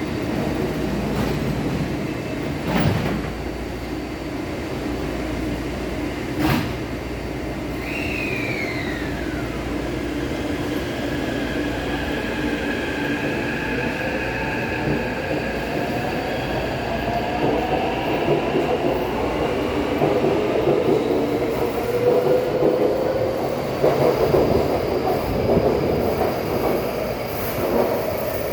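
Taipei Metro C381 train pulling out of the station: its traction motors whine in tones that climb slowly as it picks up speed, over a constant rumble of wheels on the rails. Two sharp knocks come early on and a short falling whistle follows.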